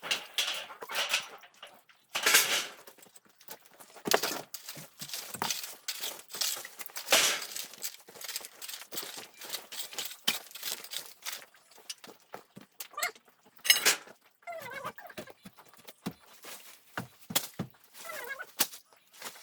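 Irregular scraping, rustling and knocks, loudest about two, seven and fourteen seconds in.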